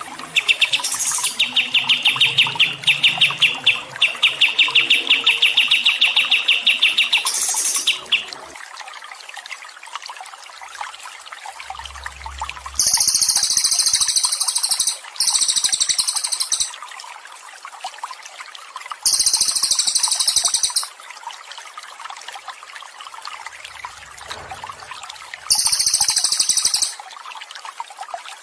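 Songbird song over steadily trickling water. A rapid, high trill runs for the first eight seconds, then three shorter, very high buzzy song bursts come later: a long one and two short ones.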